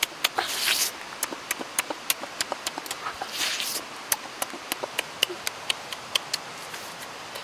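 Close-up mouth sounds of chewing grilled pork rib: wet smacking clicks a few times a second, with two short slurps, about half a second in and again near the middle.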